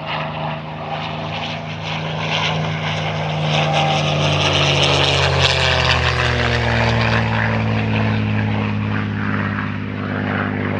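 Loud drone of large piston engines, like a propeller aircraft, with several engine tones sliding slowly down in pitch about halfway through.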